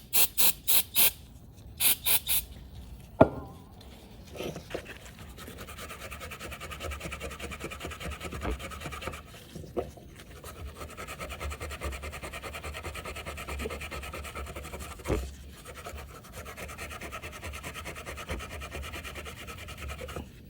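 Seven short hissing spray bursts, four then three, then a click, then steady rhythmic scrubbing of a Scotch-Brite pad on a snowmobile fuel pump cover. This is aerosol brake cleaner followed by scrubbing off old original gasket material that is stuck hard to the metal.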